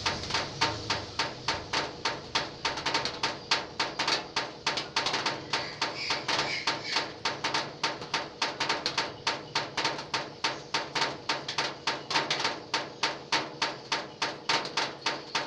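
Rainwater drips striking a corrugated zinc roof sheet in a quick, even rhythm of sharp metallic taps, like a drum.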